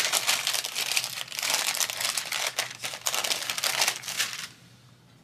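Crinkling and rustling of crinkly material being handled, with many fine crackles, stopping about four and a half seconds in.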